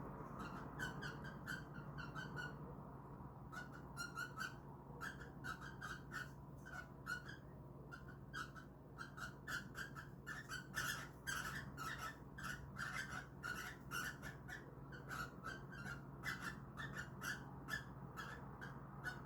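Cockatiels giving rapid, short chirps in quick clusters, with brief pauses between runs.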